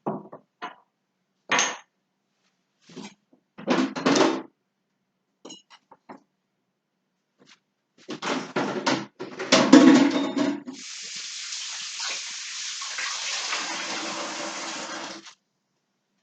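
Kitchen items clattering and knocking, loudest at about ten seconds in, then a kitchen tap running into the sink for about four seconds before it is shut off suddenly.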